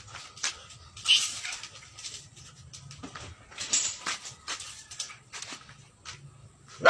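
A dog tussling with a rat: repeated scrabbling and clicking scuffles, broken by a few short, sharp cries.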